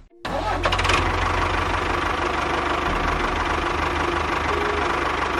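A small engine-like motor running steadily with an even low throbbing. It starts abruptly a fraction of a second in, after a brief silence.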